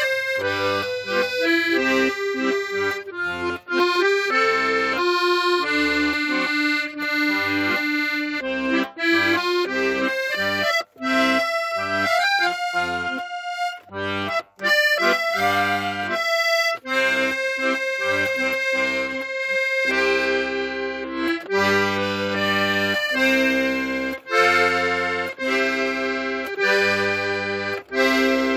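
Accordion playing a melody with low bass notes and chords beneath.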